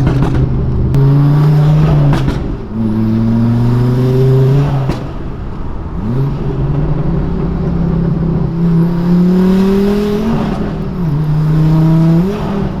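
Straight-piped Volvo S60R's turbocharged 2.5-litre five-cylinder accelerating hard through the gears: the engine note climbs steadily, then drops at each upshift, several times over.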